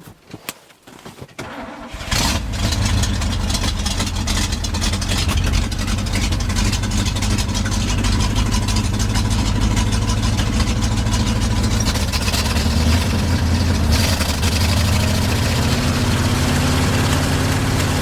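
The 1971 International 1890 truck's gasoline engine, on a freshly rebuilt carburettor, turns over and catches about two seconds in. It then runs steadily at a fast idle, with its speed rising slightly near the end, as it is brought back to life after sitting for many years.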